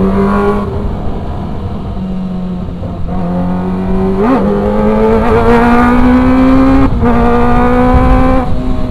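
Kawasaki ZX-25R's 250 cc inline-four engine pulling under load on the move, its pitch climbing and then dropping sharply at gear changes about half a second in and near the end, with a quick up-and-down throttle blip around four seconds.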